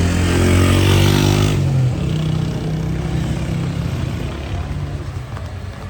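A motor vehicle's engine running as it passes close by, loudest for about the first second and a half, then carrying on more quietly as it moves off.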